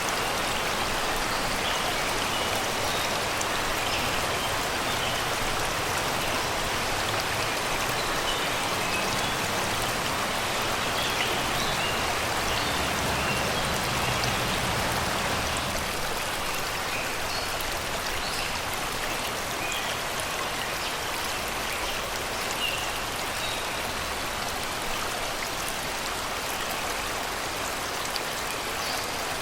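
Shallow river water flowing and babbling over rocks and stones in a steady rush, with scattered short bird chirps from the surrounding forest.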